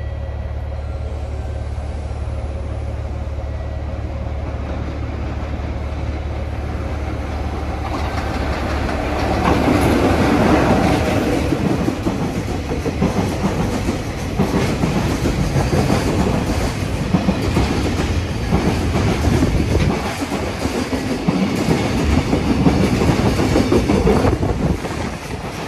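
A freight train hauled by a JR Freight EF66 electric locomotive passes with Koki container wagons. A steady low hum lasts about nine seconds, then gives way to louder rushing noise and a rhythmic clickety-clack of the wagons' wheels over the rail joints.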